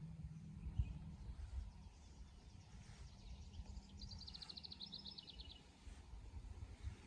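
A songbird sings a rapid trill of evenly repeated high notes about four seconds in, lasting about a second and a half and dropping slightly at the end, over a low rumbling background.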